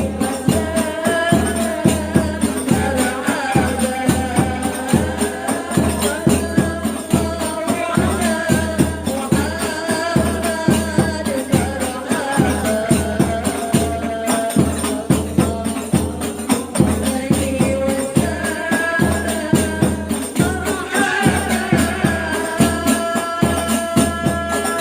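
Sholawat sung to hadroh accompaniment: rebana frame drums beating a steady, quick rhythm with tambourine jingles, under a sung melody.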